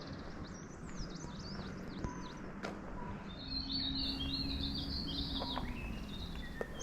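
Small birds chirping and twittering, faint and scattered at first, then a louder run of quick twittering about halfway through, over a low steady background rumble.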